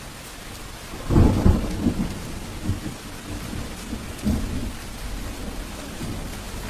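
Steady rain with a roll of thunder. The thunder starts loud about a second in and keeps rumbling in low swells for several seconds before easing back under the rain.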